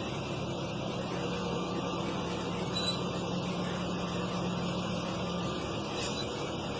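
A truck's engine running steadily, with a low hum that stops about five and a half seconds in and two brief high hisses.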